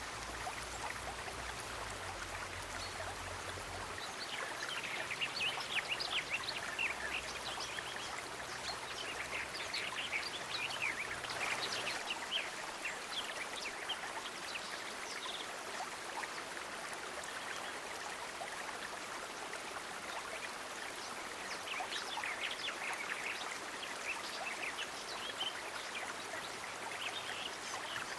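Steady rushing water, like a stream, with scattered clusters of short, high, quick sounds over it, such as small animal calls or water splashes.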